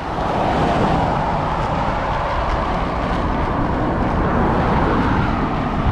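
Steady road traffic noise from vehicles on a busy bypass, heard from a bicycle riding alongside.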